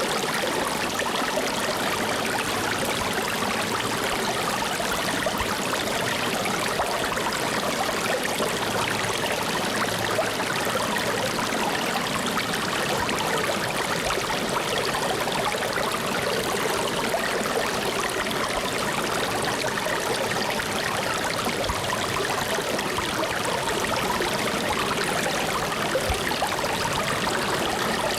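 Stream water flowing steadily, a continuous even rush with a fine trickling texture and no breaks.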